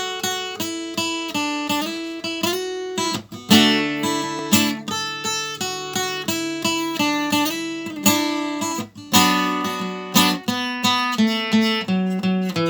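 Acoustic guitar playing a solo instrumental intro: a steady run of picked single notes over bass notes, with a few strummed chords.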